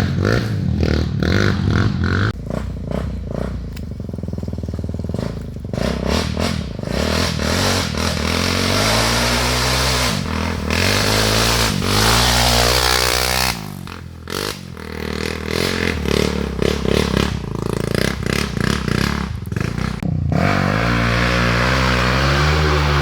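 Off-road trail motorcycle engines running and revving up and down, with clattering and scraping.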